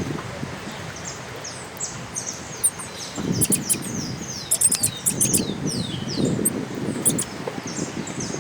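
Small birds chirping: many short, quick, falling high chirps repeated over and over, with a run of sharp clicks and low rustling in the middle.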